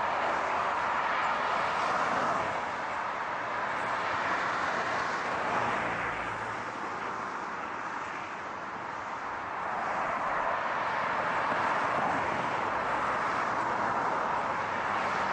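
Steady road noise of a car driving, easing slightly about eight seconds in and building again.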